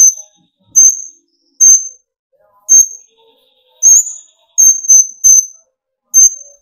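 Kolibri ninja sunbird (konin) giving its sharp 'tembakan' calls: single high, piercing notes about a second apart, then a quick run of three near the end. This is the bird's excited, agitated calling, the song keepers play as a lure to rouse other konin.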